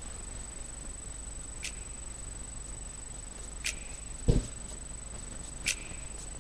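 Quiet background hum of a sound system, with a faint sharp tick about every two seconds and one low thump about four seconds in.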